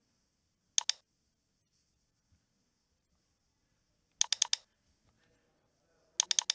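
Computer mouse clicking: a quick double click about a second in, then two fast runs of several clicks, one around four seconds in and one near the end.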